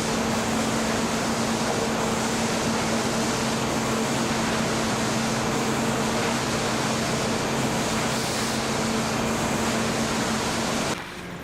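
Sawmill machinery running steadily: a continuous even noise with a steady hum beneath it, no distinct cuts or impacts, cutting off suddenly just before the end.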